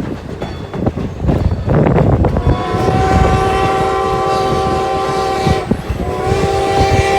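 Steam locomotive's chime whistle blowing two long blasts, several tones sounding together. The first blast starts about two and a half seconds in and lasts about three seconds; the second follows after a short break and is still sounding at the end. Before the first blast there is the clanking and rumbling of the train.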